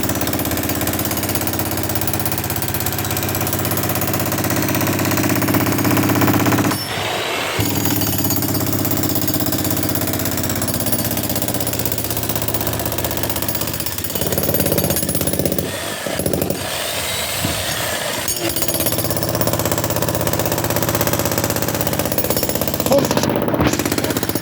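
Jackhammer breaking up a concrete slab, hammering continuously and stopping briefly a few times.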